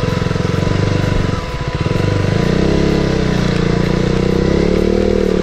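Motorcycle engine running as the bike rides into a shallow stream crossing over rocks. The revs dip about a second and a half in, then pick up and hold higher under load.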